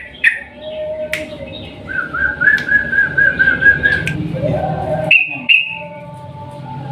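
Yellow-vented bulbul (trucukan) singing loud whistled phrases, with a rapid rolling trill of about five repeated notes a second that starts about two seconds in and lasts around two seconds, then higher short notes near the end.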